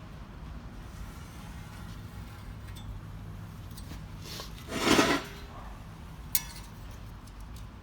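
A brief metal scrape, about a second long, partway through, then a single sharp metallic clink, over a steady low hum. It sounds like steel parts or tools being handled and rubbed against each other.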